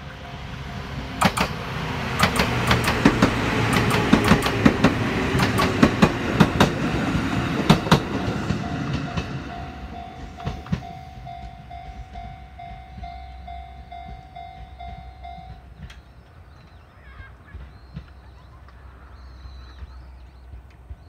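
Chichibu Railway express electric train passing close by, its wheels clacking sharply over rail joints, loudest in the first half and dying away after about eight seconds. As it fades, a level-crossing warning bell rings in an even beat of about two strokes a second, then stops a little past the middle.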